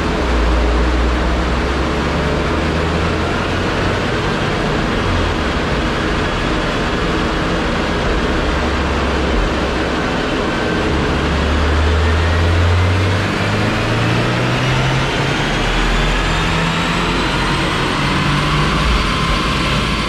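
2022 Subaru WRX's turbocharged 2.4-litre flat-four running at full throttle on a chassis dyno during a baseline power pull on a Cobb Stage 2 tune. A whine rises steadily in pitch through the second half as the revs climb.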